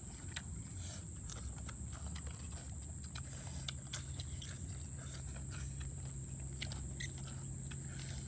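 People chewing and smacking their lips while eating with their fingers: a run of irregular, wet clicking mouth sounds. Under it runs a steady high thin whine, and a low hum comes in about three seconds in.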